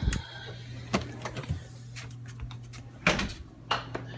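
A door and other handling knocks and clicks, several in a row, the loudest about three seconds in, over the steady low hum of the Bixby Maxfire 100 stove's exhaust fan running indoors.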